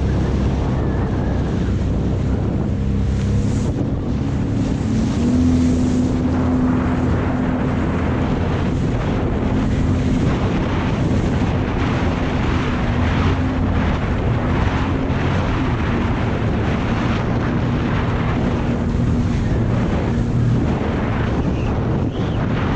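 Jet ski engine running under way, its pitch stepping up about five seconds in and then holding steady, with wind buffeting the microphone over it.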